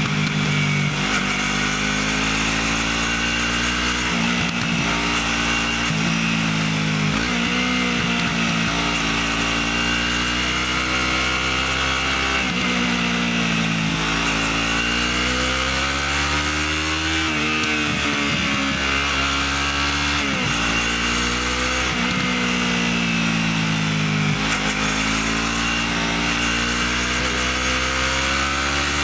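Motorcycle engine through its stock exhaust, the note climbing and then dropping back again and again as the bike accelerates and changes gear.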